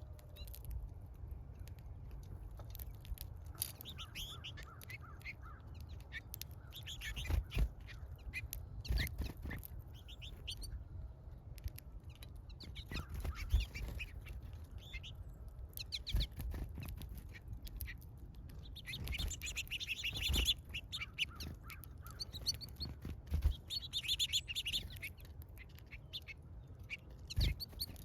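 Small birds chirping in quick, scattered bursts at a feeder, busiest in two spells past the middle. Sharp knocks and taps come now and then over a low steady rumble.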